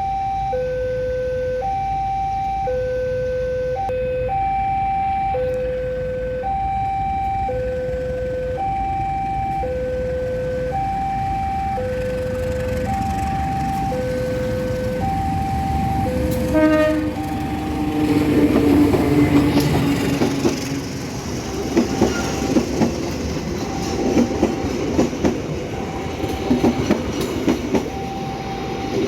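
A two-tone warning alarm sounds steadily, alternating a high and a low tone about once a second, as a level-crossing bell does. About seventeen seconds in, the KA Airlangga passenger train arrives and passes, its wheels rumbling and clattering over the rail joints while the alarm keeps sounding.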